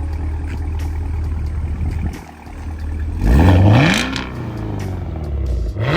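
Cadillac Escalade-V's supercharged 6.2-litre V8 idling, then revved hard about three seconds in, its pitch climbing and falling back, and blipped again near the end.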